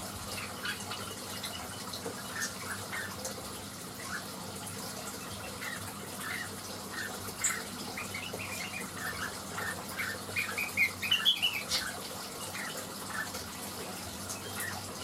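Greater green leafbird (cucak wilis) singing a busy run of short chirping notes over a steady background hiss. The notes come thickest and loudest about ten to twelve seconds in.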